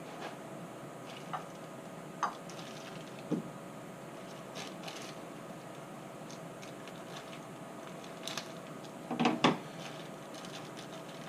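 Scattered clicks and knocks of small parts being handled and fitted together, over a faint steady hum, with the loudest clatter about nine seconds in.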